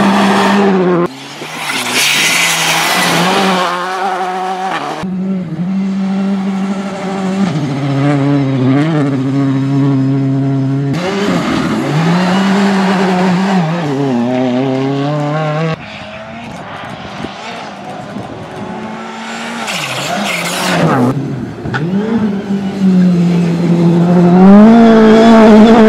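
Rally cars driven hard through a stage in a run of short clips, engines revving up and dropping back on gear changes and lifts, with tire noise. The loudest pass builds near the end.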